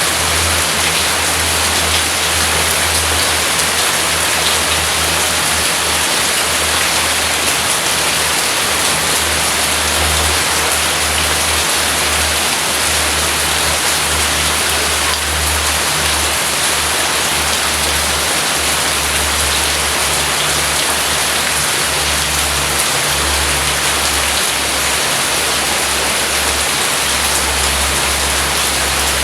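Heavy rain falling steadily, a dense even hiss of drops, with a low rumble underneath.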